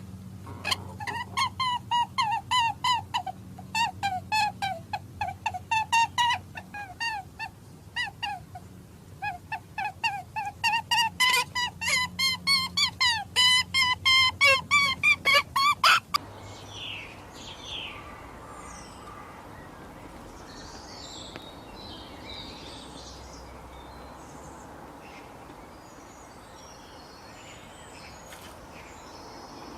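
Birds calling in rapid, repeated short calls, several a second, which break off suddenly about halfway through. After that there is a steady outdoor background with faint high chirps.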